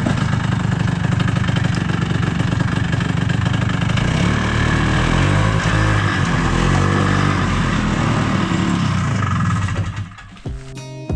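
Snowmobile engine running, its pitch rising and falling as it is revved, then cutting out near the end. Acoustic guitar music starts just after.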